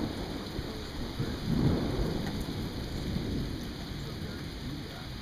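Steady rain with a low rumble of thunder that swells about a second and a half in and slowly fades.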